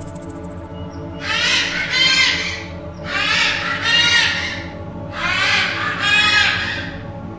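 An animal giving a harsh two-part call three times, about every two seconds, over steady background music.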